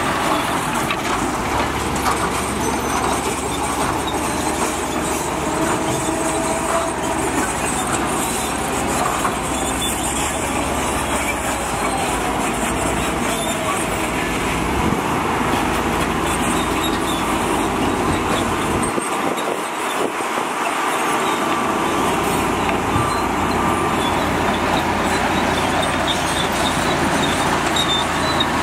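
Heavy diesel earthmoving machinery running steadily at work. The low engine hum drops away for a couple of seconds about two-thirds of the way through.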